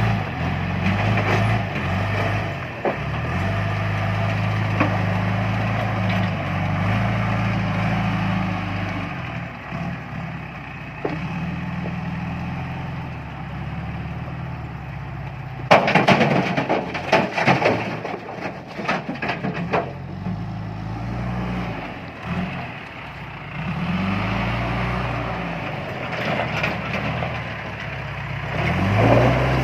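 John Deere 310E backhoe loader's diesel engine running and revving up and down as the loader works. About 16 seconds in there is a loud rattling crash of stones lasting around four seconds, as a bucketload of rock is dumped into the truck bed.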